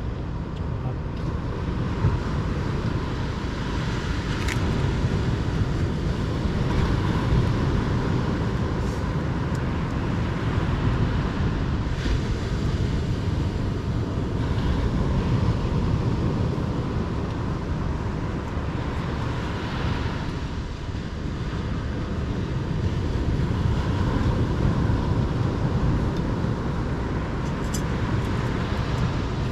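Steady low outdoor rumble that swells and eases every few seconds, with a few faint clicks.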